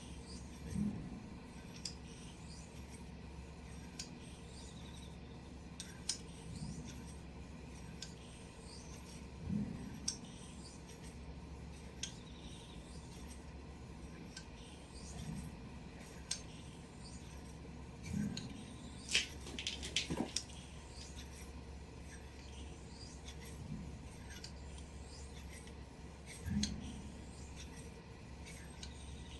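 Japanese kamisori razor blade being stroked on a natural whetstone: quiet rubbing strokes with a soft knock every few seconds and small scraping ticks, and a short cluster of sharper clicks about twenty seconds in.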